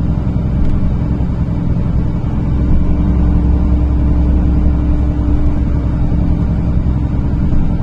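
NefAZ-5299 city bus under way, heard from inside the cabin: a steady low engine and drivetrain rumble with a constant hum running through it.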